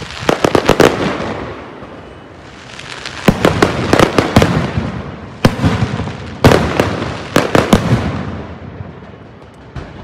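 Aerial fireworks bursting in rapid volleys of sharp bangs, four clusters of reports with a rumbling tail and brief lulls between them.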